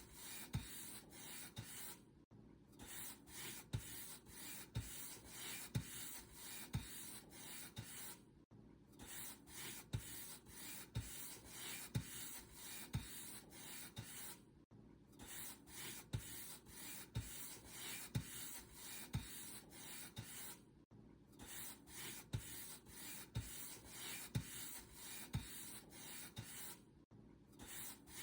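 Paint brush stroking over a surface, a steady scratchy swish of bristles about once a second. A short silent pause comes roughly every six seconds.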